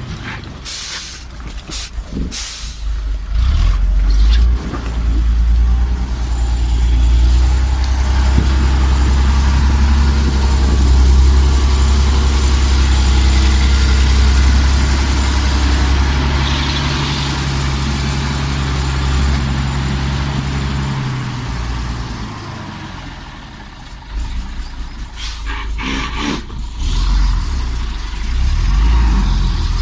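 Heavy diesel truck engine running hard under load, a deep steady drone that eases off a few seconds before the end and then picks up again. Short sharp hisses of air come several times near the start and again near the end.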